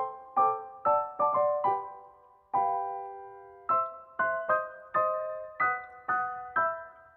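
Background music: a piano-like keyboard playing chords, struck about twice a second with a quick fade after each, and one chord held longer midway.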